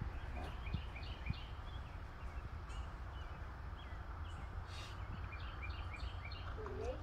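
A small songbird singing a quick phrase of short high chirps, twice, about four and a half seconds apart, over a steady low rumble.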